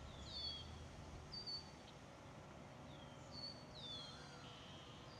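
Faint birdsong: a handful of short, high chirps, several of them sliding down in pitch, over quiet outdoor background noise.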